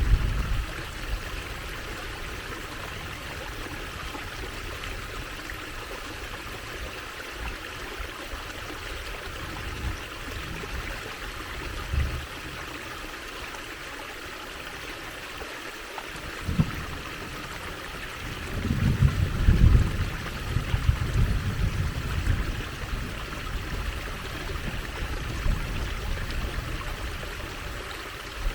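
Steady trickling stream water running continuously. It is overlaid by low rumbling bursts, loudest about two-thirds of the way through.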